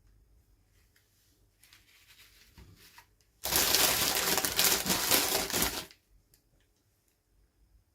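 Toy packaging being handled and opened: faint rustling, then a loud burst of crinkling about three seconds in that lasts some two and a half seconds and stops abruptly.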